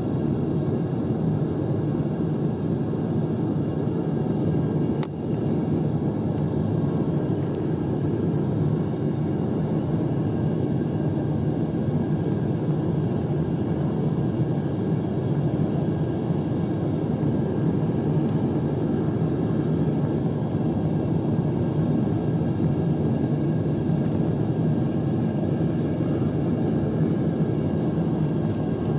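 Devil Forge gas-fired melting furnace running steadily with a low rumble, its burner heating a charge of scrap aluminium. There is a brief click about five seconds in.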